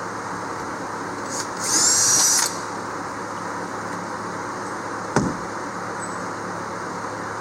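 Power drill running briefly, spinning up and winding down in under a second, as it backs a screw out of a boat's wooden floor. A single sharp click follows a few seconds later, over a steady hiss.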